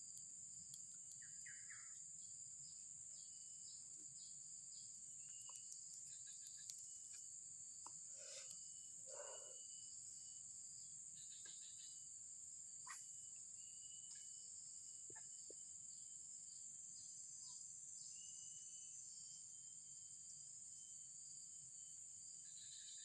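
Faint, steady, high-pitched drone of an insect chorus, with a few brief bird chirps about eight to ten seconds in.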